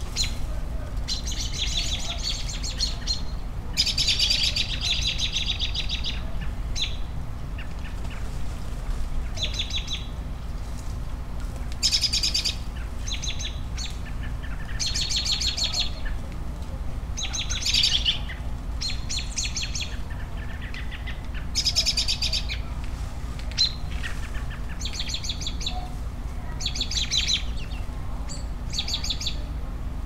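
Birds singing: repeated short bursts of rapid, high chirping notes, a new burst every second or two, over a steady low background hum.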